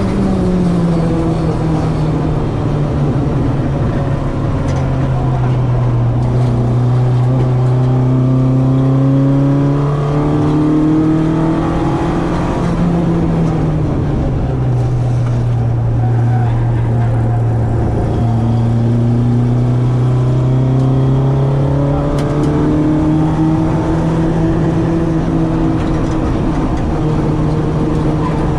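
Citroen AX's 8-valve four-cylinder engine on twin Weber 40 carburettors under hard driving, pitch rising and falling as it is revved through the gears with a few sharp drops at shifts.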